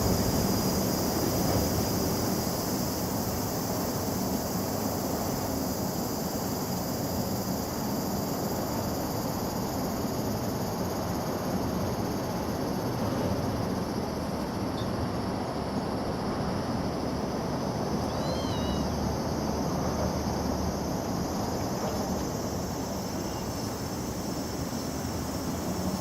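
Summer chorus of many cicadas, a steady high buzzing over a low rumble. A brief high chirp sounds twice about two-thirds of the way through.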